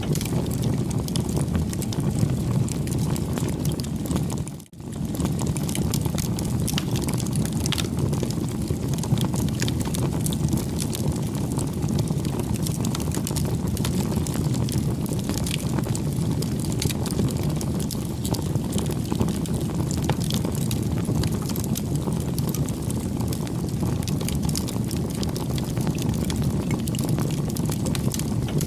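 Campfire burning steadily with a low rushing sound and frequent small crackles and pops. The sound drops out briefly about five seconds in.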